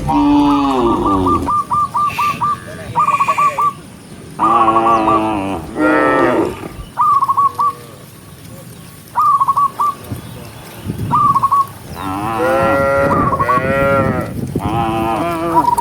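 Cattle mooing again and again: about five long calls that bend in pitch, two pairs coming close together. Between the moos come quick runs of short, high chirps.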